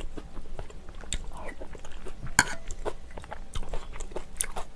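Close-miked chewing and wet mouth clicks as mouthfuls of kimchi stew are eaten, with one sharper click about halfway.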